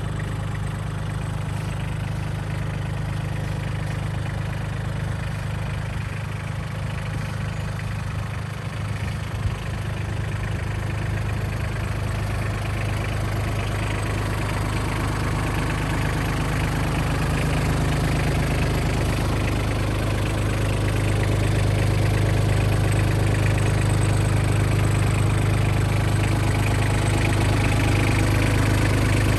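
Mitsubishi MRT-18 crawler tractor's diesel engine running steadily at idle, growing somewhat louder about two-thirds of the way through.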